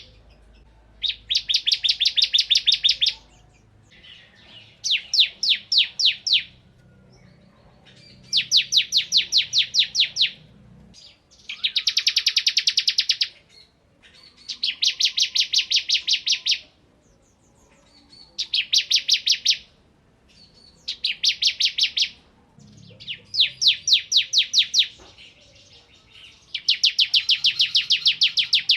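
Bar-winged prinia (ciblek) singing in rapid machine-gun-like trills of sharp, high notes. Each burst lasts about one and a half to two seconds and comes every few seconds, nine bursts in all.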